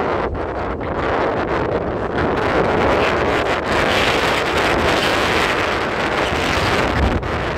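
Taipei Metro electric train running past, a loud rushing rumble of wheels on rail that swells in the middle and eases off near the end, with wind buffeting the microphone.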